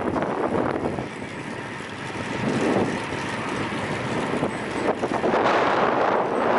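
Wind buffeting the microphone of a camera riding along on a fixed-gear bike on a fast downhill run. The noise eases about a second in and builds up again near the end as speed picks up.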